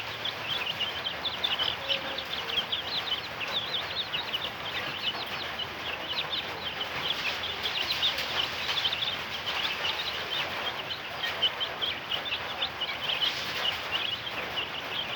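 A group of month-old ayam kampung (Indonesian native village chickens) peeping continuously, many short high cheeps overlapping without a break.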